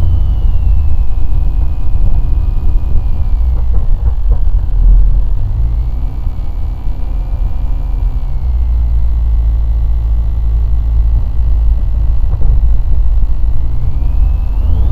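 Light aircraft engine and propeller heard from inside the cockpit, a loud rumble with a steady whine. The whine falls over the first few seconds and then holds. Near the end it rises sharply as the throttle is opened for the takeoff roll.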